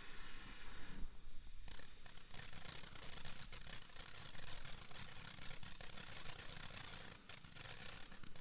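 A ground firework fountain spraying with a steady hiss. About two seconds in, it turns into dense, rapid crackling.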